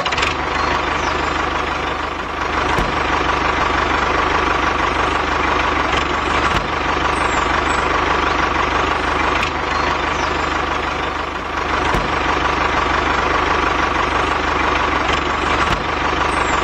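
Tractor engine running steadily at idle with an even low chugging pulse, a dubbed sound effect laid over a toy tractor.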